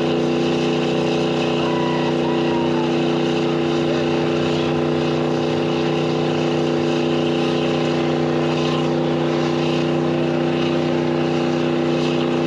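An engine running at a constant speed, a steady drone that holds the same pitch throughout.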